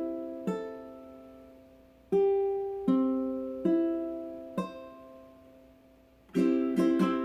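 Chords strummed on a small stringed instrument, each one left to ring out and fade, with quicker rhythmic strumming starting near the end.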